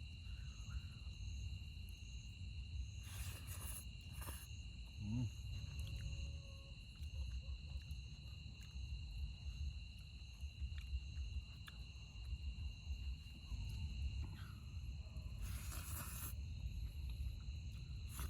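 Night insects, crickets among them, singing in steady high-pitched trills, with a fainter evenly pulsing chirp above them, over a low rumble. Two brief rustling noises break in, a few seconds in and again near the end.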